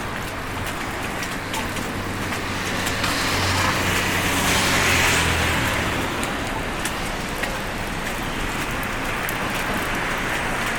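A car passing on the street, its engine hum and tyre hiss swelling to a peak about five seconds in and then fading, over a steady background hiss.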